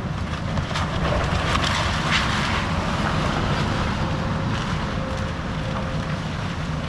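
Excavator's diesel engine running steadily while demolishing a house, with debris cracking and crunching a couple of times between one and two and a half seconds in.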